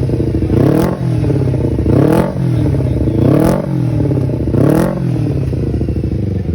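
Honda CBR250RR engine through a Pro-Liner aftermarket exhaust, revved in short repeated blips, about four in a row, each rising and falling back, then settling to a steady idle near the end.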